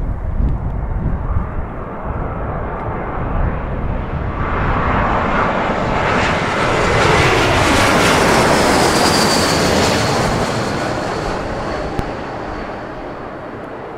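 Airbus A321-200 airliner landing and passing by, its jet engine noise building to a peak about eight to ten seconds in, with a high whine that falls in pitch as it goes past, then fading. A low wind rumble on the microphone runs underneath.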